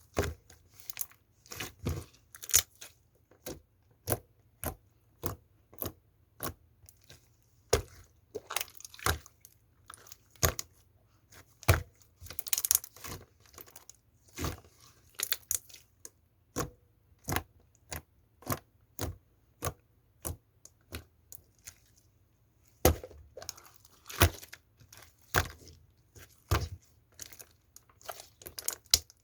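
Slime being squeezed, stretched and poked by hand, giving a series of sharp clicks and pops, about one to two a second, with a few busier crackling stretches.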